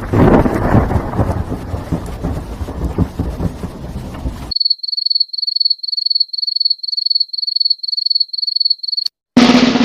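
Three sound effects back to back. First a thunderstorm: rumbling thunder over rain. It cuts off abruptly to a high-pitched electronic beeping that pulses in quick bursts, like a digital alarm, and after a short gap a drum roll begins near the end.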